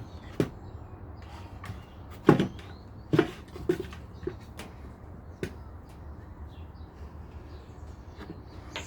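Workshop handling sounds: a handful of scattered knocks and clunks, as of tools and pieces of wood being picked up and set down on a bench, the loudest a little after two seconds and just after three seconds in.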